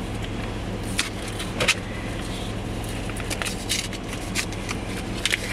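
Vehicle engine running at a steady low hum, heard from inside the cabin, with a few short clicks and jingles scattered through it.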